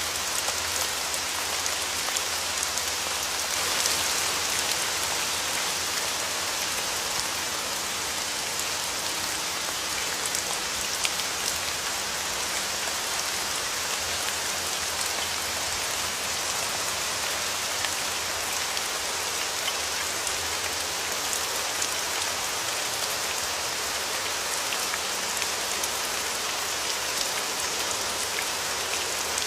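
Steady rain falling: an even hiss with many small ticks of single drops striking a surface.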